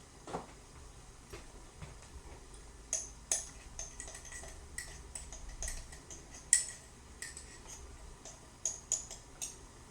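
A metal teaspoon clinking and scraping as powdered coffee creamer is spooned out and tipped into a saucepan: a run of light, irregular metallic ticks and taps.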